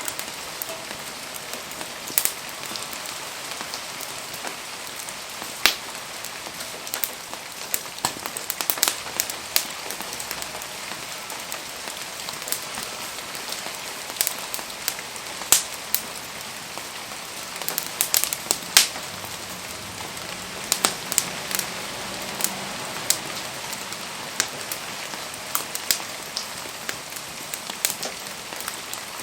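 Wood fire burning in steady rain: an even hiss of rain with frequent irregular sharp crackles and pops.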